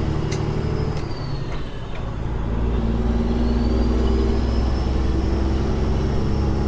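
Diesel engine of a Peterbilt 389 glider semi-truck running under way, with a short dip and a couple of sharp clicks about a second in, then pulling steadily again with a slight rise in pitch.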